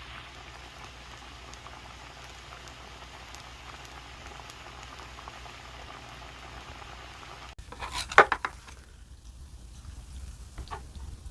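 A pot of kalguksu noodle soup bubbling at a steady boil for about seven and a half seconds. The sound then cuts off abruptly and a short, loud clatter of clicks follows.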